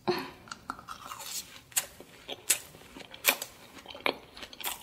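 Close-miked biting and chewing of a fried cheese ball, with sharp crunches of its crisp coating coming unevenly, about six in all.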